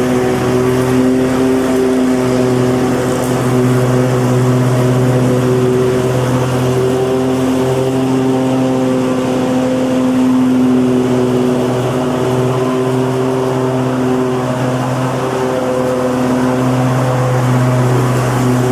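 Petrol lawn mower engine running steadily under a loud mechanical drone, its pitch wavering slightly.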